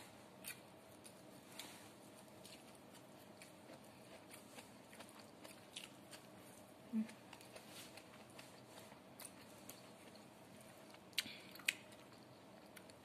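Close mouth sounds of someone biting and chewing crisp dried anchovies (dilis): scattered faint crunches and clicks, with two sharper crunches about eleven seconds in and a brief low hum about seven seconds in.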